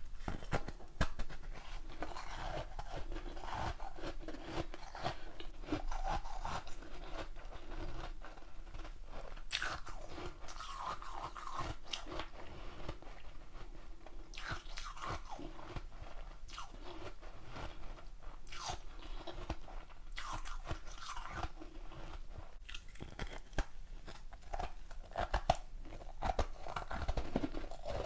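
A person biting and chewing a large block of ice, a steady run of irregular crunches and cracks.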